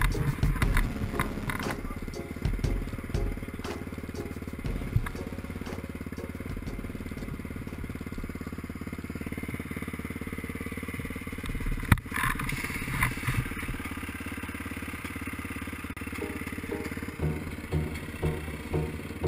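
Off-road motorcycle engine running at low revs while the bike is ridden slowly, with a sharp knock about twelve seconds in and the engine note turning uneven near the end.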